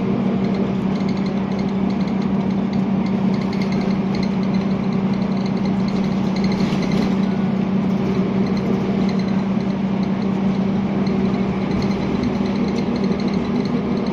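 Scania L94UB bus's diesel engine running steadily, with a constant low drone and no revving.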